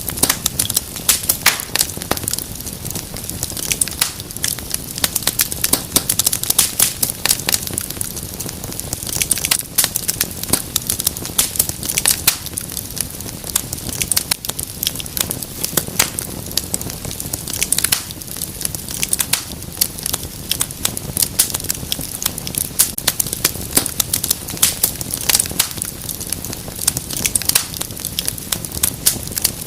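Wood fire crackling in a fireplace: dense, irregular pops and snaps over a steady low hiss.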